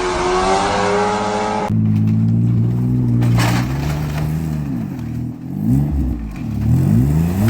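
Engine running, its pitch repeatedly dropping and rising as it revs, with an abrupt change of sound about two seconds in.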